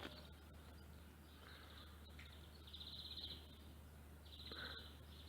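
Faint outdoor quiet with a low steady hum, broken twice by a short, rapid bird trill, about three seconds in and again near the end.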